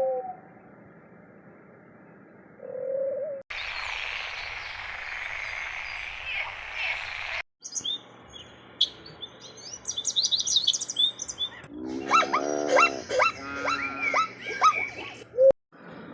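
Birds chirping and calling in a string of short clips cut together: a quiet stretch with one short call, an outdoor stretch with a steady hiss of background noise, rapid high chirps, then a run of louder, lower repeated calls near the end.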